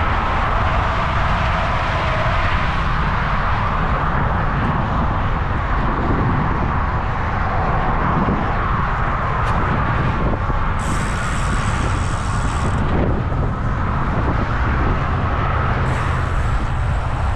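Steady wind rushing over the microphone of a moving road bike, mixed with the noise of car traffic on the road, with a brief high hiss for a couple of seconds past the middle.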